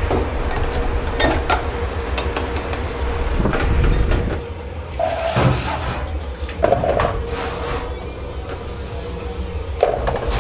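Dishes, pans and cutlery clattering and clinking as they are handled in a commercial kitchen dish pit. Irregular knocks and clinks come throughout, over a steady low hum.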